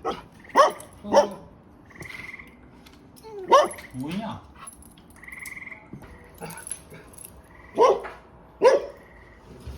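Dog barking in short, sharp barks, several times, mostly in pairs, each bark falling in pitch.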